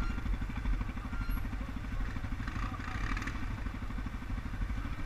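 ATV engine running steadily at low speed, with an even chugging pulse. There is a brief hiss about halfway through.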